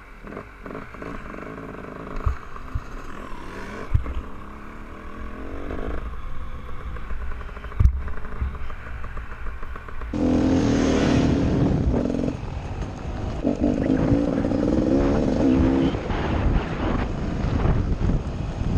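Enduro dirt bike engine running low with a few sharp knocks, then revved hard from about ten seconds in, the revs dipping briefly and climbing again.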